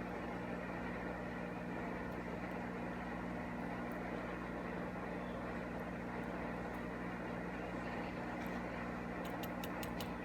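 Steady low mechanical hum of a running machine, even throughout, with a few light clicks near the end.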